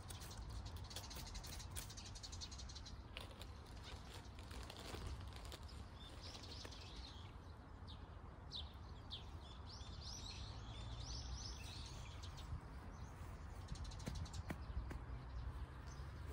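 Small birds chirping and twittering in short calls, over a low steady rumble.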